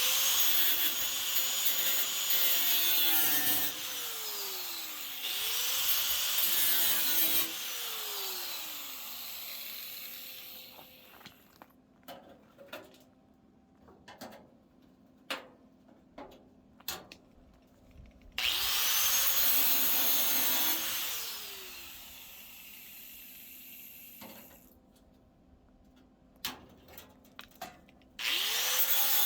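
Electric angle grinder working metal in three bursts: each time it spins up with a rising whine, grinds, then winds down with a falling whine. Sharp taps and clicks of metal being handled fill the pauses between runs.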